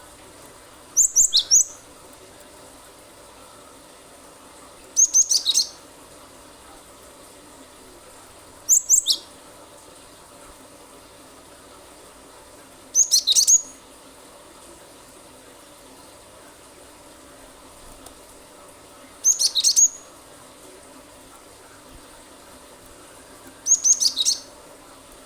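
Cinereous tit (gelatik batu) calling in short bursts of rapid, high-pitched notes, six bursts about four seconds apart.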